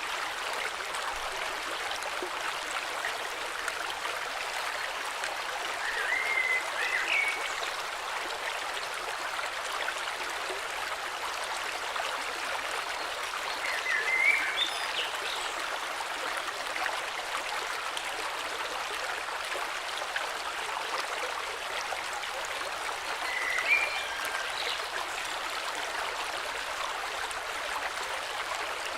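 A river flowing steadily, with short bird chirps breaking through about three times.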